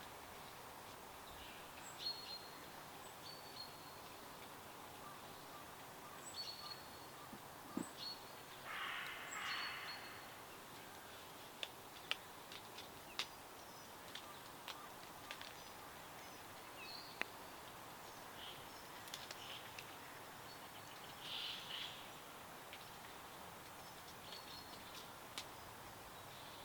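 Wild birds chirping and calling over a faint steady hiss of outdoor ambience: short high calls scattered throughout, a longer harsher call about nine seconds in, and a few sharp clicks near the middle.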